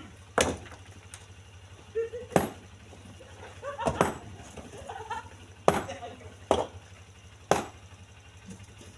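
Split stones knocking as they are lifted and dropped into a truck bed by hand: six or seven sharp, separate impacts spaced unevenly a second or two apart.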